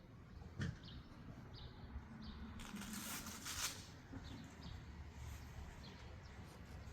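Small birds chirping, short high notes repeating every half second or so, over a low background rumble. There is a single click just after the start and a brief hissing rustle about three seconds in.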